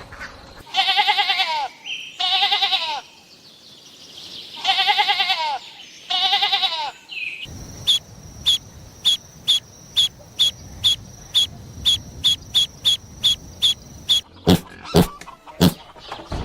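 A young farm animal bleating four times, high quavering bleats that fall in pitch at the end. This is followed by a run of short high chirps, about two a second, over a steady high whine, and a few lower short calls near the end.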